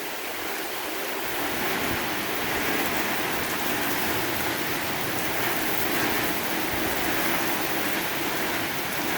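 Strong thunderstorm wind gusting with rain, a steady rushing noise that swells a little about a second and a half in.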